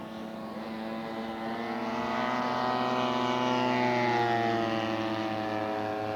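Fuji-engined radio-control scale model airplane making a low pass. The engine note grows louder, peaks about two thirds of the way through, then drops slightly in pitch and fades as it goes by.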